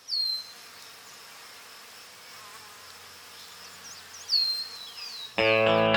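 Steady insect-like buzzing with two sharp falling chirps about four seconds apart, then music starts near the end.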